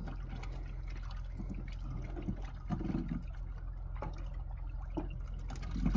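Sea water sloshing and trickling, with a few small splashes, over a steady low hum.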